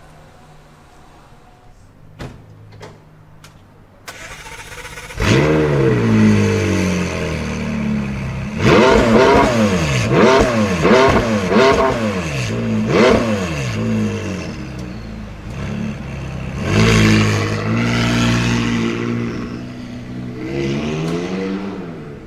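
A supercar's engine starting with a loud flare of revs about five seconds in, then revved in a quick series of throttle blips. It rises and falls in pitch several times, with another rev later on and one more near the end.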